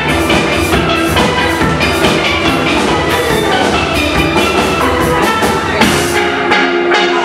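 Steel-drum band playing, with steelpans carrying the tune over a rhythm of struck percussion and bass. About six seconds in, the bass and beat drop away, leaving the pans' ringing notes.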